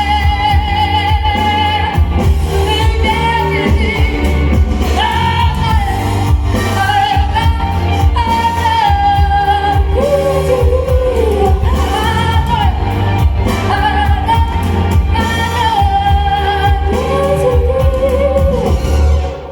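A singer's voice performing a pop song over a backing track with a heavy bass beat, holding long high notes; the music ends right at the close.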